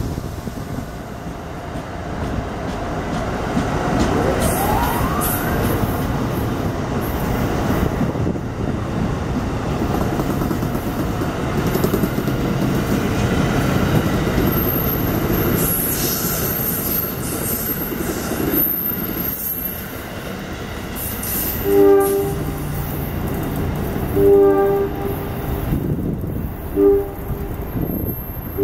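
Electric passenger train passing at speed, a steady rush of wheels and cars for about twenty seconds with a rising whine around four seconds in. Near the end a train horn sounds three blasts, the middle one the longest.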